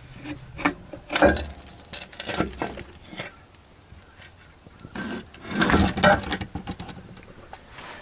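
Metal clanking and scraping as the steel rear differential cover is worked off the axle housing, in a few irregular clusters with the loudest about five to six seconds in.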